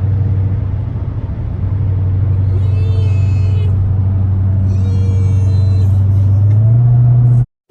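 Car engine running at cruising speed, heard as a steady low drone from inside the cabin; near the end its pitch rises slightly as the car speeds up, then the sound cuts off abruptly.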